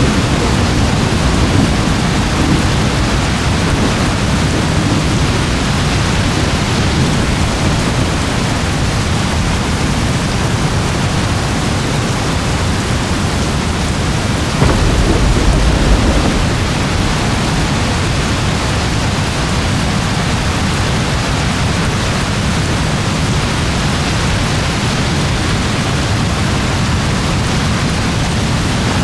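Steady heavy rain with rolling thunder rumbling low underneath. A short, louder low rumble of thunder comes about halfway through.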